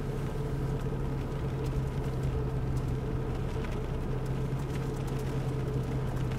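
Steady hum of a vehicle's engine running at constant speed, heard inside the cabin, with a few faint clicks.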